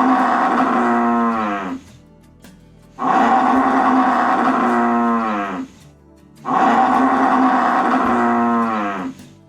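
Cow mooing: three long moos, the first already under way, each held steady and then dropping in pitch as it ends.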